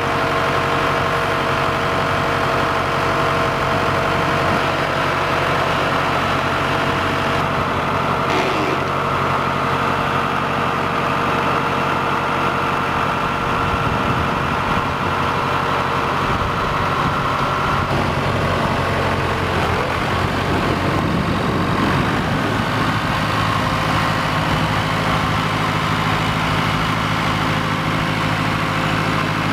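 Massey Ferguson 265 diesel tractor engine running steadily at idle, its note shifting a few times in the middle as the engine speed changes.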